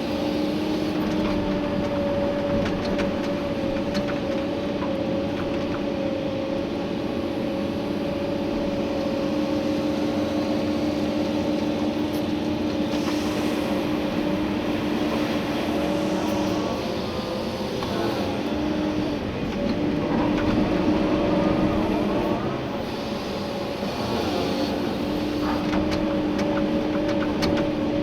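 Komatsu PC290-11 excavator's diesel engine and hydraulics running under digging load, heard from inside the cab: a steady hum with a held tone that breaks off briefly twice in the second half, getting louder for a moment between the breaks.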